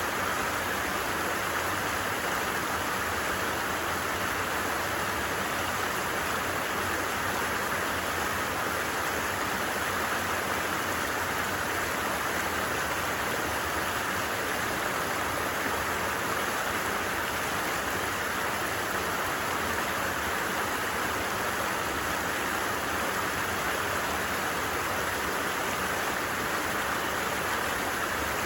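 A stream flowing: a steady, unbroken rush of running water.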